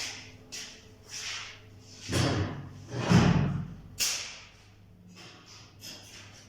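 Wooden cage parts being handled: a run of scraping, sliding sounds and thuds, the loudest about three seconds in, then a sharp knock that fades away.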